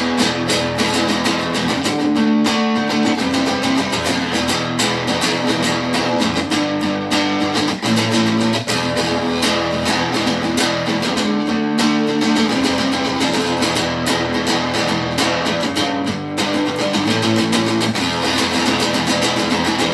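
Guitar plugged into an amplifier or effects, strumming a run of held chords that change every second or two, with no singing.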